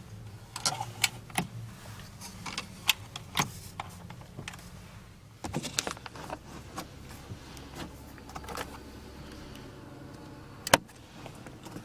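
Irregular clicks and knocks of a car's interior fittings being handled, over a steady low hum, with one sharp click near the end.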